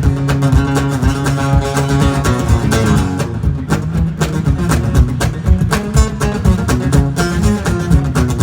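Instrumental break in a live country song, led by guitar over a steady beat, with no singing.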